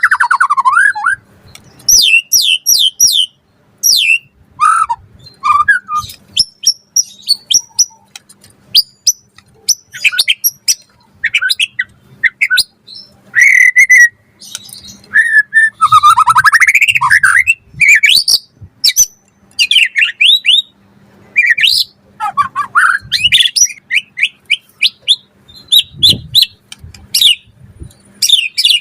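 White-rumped shama (murai batu) in full song: a loud, varied run of short phrases of clear whistles, rapid trills and sliding notes with brief gaps between them, a song rich in varied fill-in phrases ('full isian').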